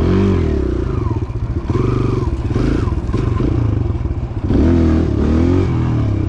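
Small gas pit bike engine running and revving up and down several times, with some clatter.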